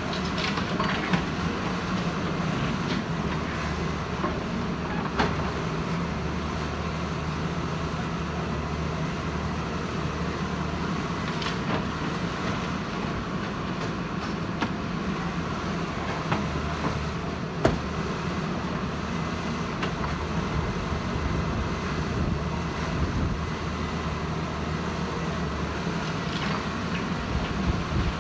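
Caterpillar 320 hydraulic excavator's diesel engine running steadily, with a few sharp metal knocks and clanks scattered through it.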